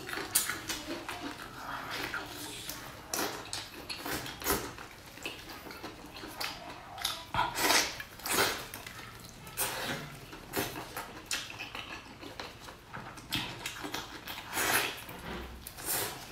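Close-mouth eating of soft braised pork: wet chewing and biting with irregular smacks and clicks of the mouth.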